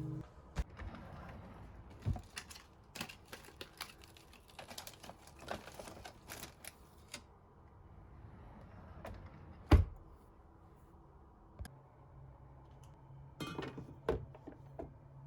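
Scattered light clicks and knocks of household objects being handled, with one louder knock about ten seconds in. A low steady hum comes on near twelve seconds in.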